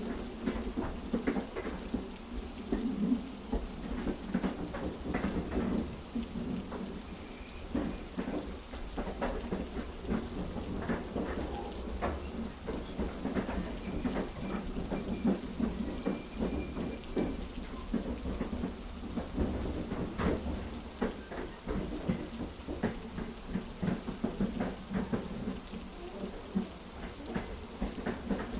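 Heavy rain with a steady low rumble underneath and many irregular sharp taps, mixed with the rhythmic clack of a train's wheels on the tracks.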